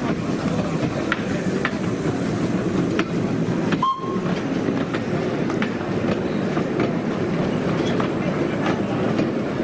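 Narrow-gauge train running along the track, a steady rumble with light clicks of wheels over the rail joints. About four seconds in there is one short, high squeal.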